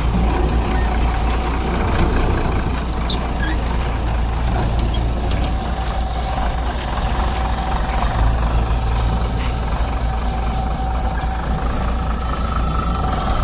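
Heavy diesel engine running steadily, with a thin steady whine coming in about halfway through.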